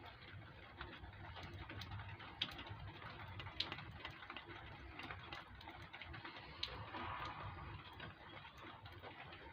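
Faint, scattered small clicks and crinkles as stuck protective plastic film is picked at and peeled off a new motorcycle luggage rack part.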